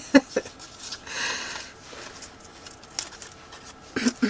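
Paper rustling on a desk, with a few light clicks, as paper cutouts are handled. A brief murmur of a woman's voice comes at the start and again near the end.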